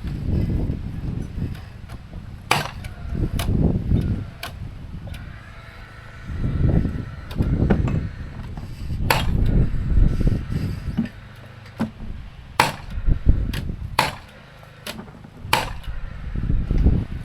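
Hammer blows on timber during roof framing: single sharp knocks a second or more apart, then a quicker run of strikes near the end. Gusts of wind rumble on the microphone throughout.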